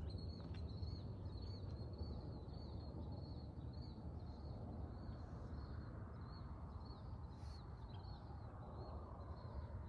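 A small bird chirping over and over, about two short chirps a second, over a low steady outdoor rumble.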